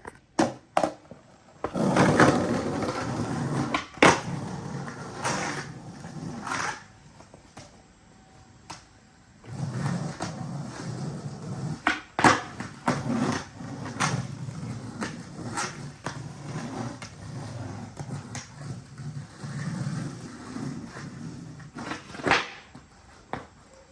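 Skateboard rolling over pavement on urethane wheels, a steady rolling rumble in two long stretches, with sharp clacks of the board hitting the ground about 4 s, 12 s and 22 s in.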